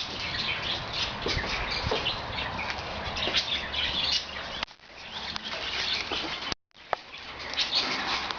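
Pet birds chirping, with wings fluttering.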